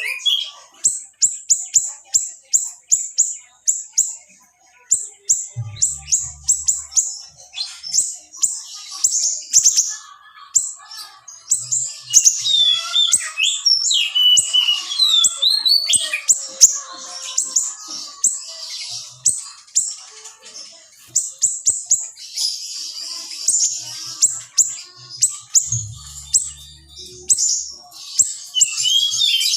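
Siri kecil, a small songbird, singing a dense, fast song: runs of sharp, high chirps at about five or six a second, broken by falling and wavering whistles.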